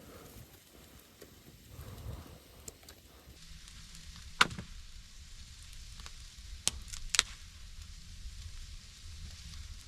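Steak sizzling faintly in a pan on low heat, with three sharp snaps a little past the middle.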